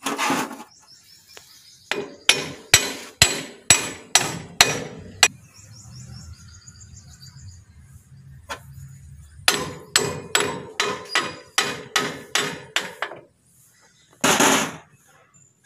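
Hammer blows on steel parts of a JCB front axle spindle, most likely the king pin being driven home. The blows come in two runs of about eight and ten strikes at roughly two a second, with a pause between them.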